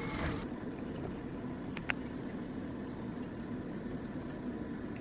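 Hissing of food frying in a pan cuts off abruptly about half a second in, leaving a steady low hum with a single sharp click about two seconds in.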